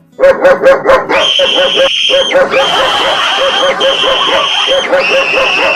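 Dog barking: four loud barks in quick succession, then a dense run of rapid barks under a steady high tone, cutting off abruptly at the end.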